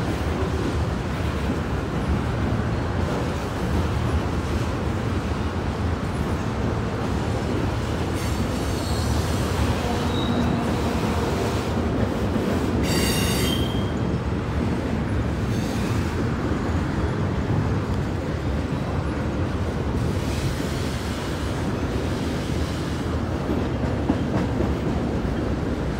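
Freight cars of two Norfolk Southern trains, double-stack container cars and tank cars, rolling past on the rails with a steady rumble of wheels on track. A brief high wheel squeal rings out about 13 seconds in, with fainter squeals a few seconds before.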